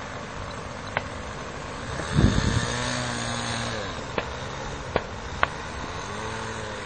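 Two-stroke OS .46 glow engine of a radio-controlled P-39 Airacobra model running, its pitch sliding down and back up a couple of times as the throttle changes. There is a brief low rumble a couple of seconds in and a few sharp ticks.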